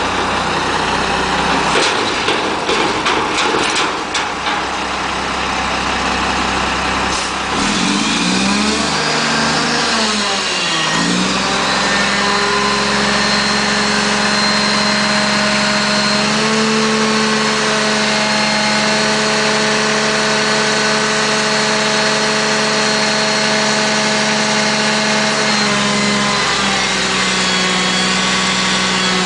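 Mack front-loader garbage truck's diesel engine running, with metallic clanks in the first few seconds. Its pitch swoops down and back up, then holds a steady raised speed for the rest of the time.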